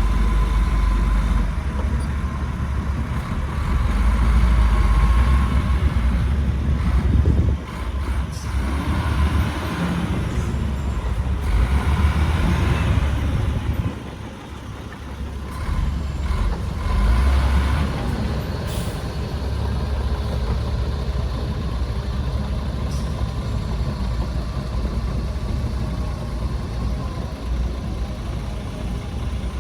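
Heavy diesel engines of earthmoving machinery, dump trucks and a bulldozer, running under load with a deep, continuous rumble. The rumble swells and eases, dipping briefly about halfway through.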